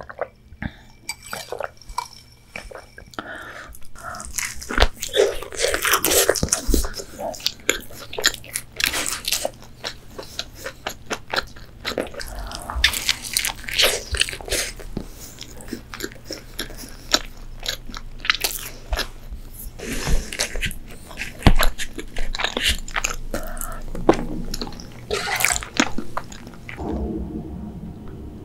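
Close-miked eating of a fried chicken sandwich: repeated bites that crunch through the crispy breading, with chewing in between.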